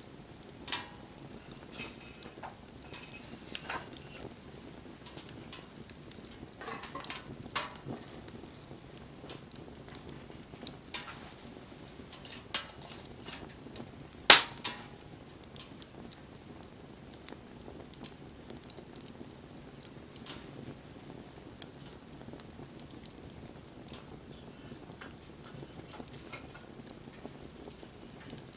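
Wood campfire crackling, with irregular sharp pops and snaps of burning wood over a low steady rush of flame; one pop about halfway through is much louder than the rest.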